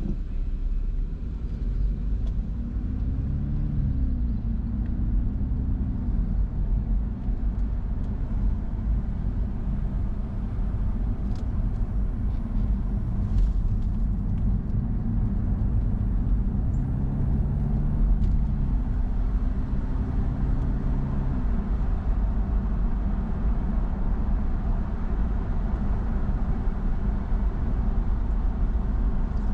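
A car being driven: steady low engine and road rumble. Twice the engine's hum rises in pitch and holds for a few seconds as it pulls away, then falls back.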